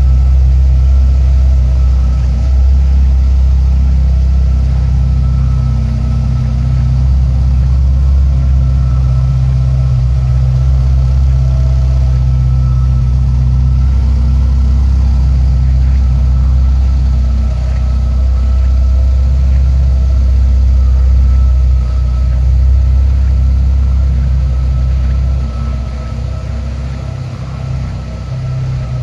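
Ferrari 348 Spider's 3.4-litre V8 idling steadily, a little quieter near the end.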